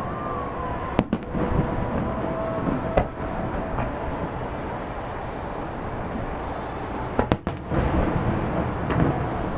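Aerial fireworks bursting: sharp bangs about one second in, three seconds in and a close pair near seven seconds, over a continuous rumble of further bursts.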